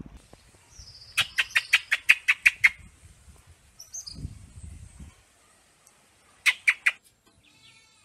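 A bird calling: a rapid run of about ten sharp notes, then after a pause a short burst of three more near the end.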